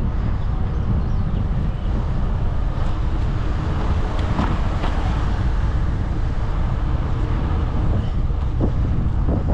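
Wind buffeting the microphone of a moving bicycle rider, a steady low rumble with road noise underneath.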